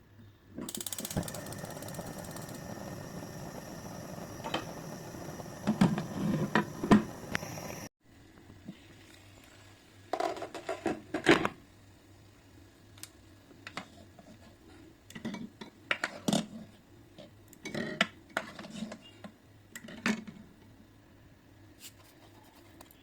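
A steady hiss runs for the first several seconds with a few clinks over it, then stops abruptly. After that come scattered knocks and clinks of dishes, pots and utensils being handled.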